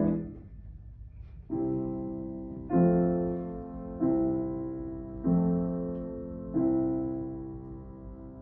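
Piano playing a slow series of five chords about 1.3 s apart, starting about a second and a half in, each struck and left to ring down.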